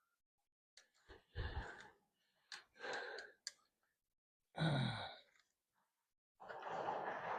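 A man's heavy breaths and sighs, four in a row about a second or more apart; the third is voiced and falls in pitch like a groan. A couple of short clicks come between them.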